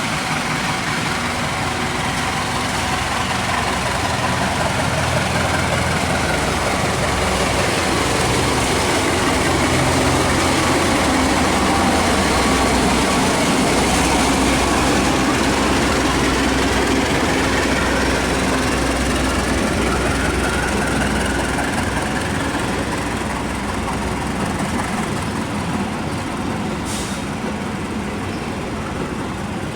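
Diesel locomotive-hauled train passing. Its engine's steady drone builds to a peak about midway and then eases away, with sliding tones in the middle range.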